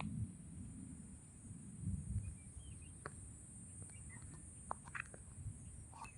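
Faint, scattered short bird chirps and clicks over a low rumble, with a steady high-pitched hiss throughout.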